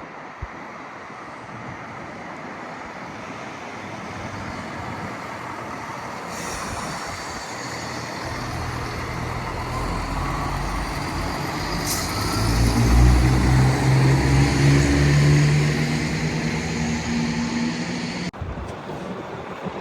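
Diesel train approaching and running through the station, its engine drone and rail noise building steadily to a peak about two-thirds of the way in, then cutting off suddenly near the end.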